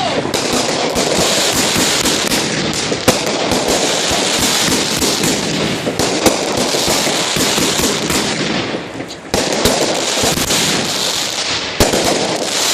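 Ground fireworks going off in a dense, continuous run of rapid crackling bangs, with a short lull about nine seconds in before a linked item catches and the crackling starts again.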